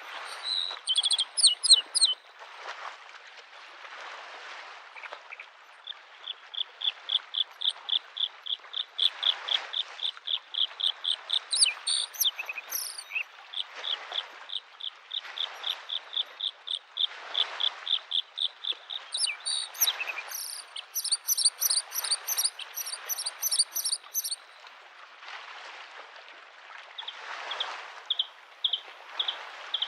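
Bluethroat singing: long runs of fast repeated high notes, about five a second, with bursts of higher, sharper notes near the middle. Small lake waves wash onto the shore underneath in soft swells every two to three seconds.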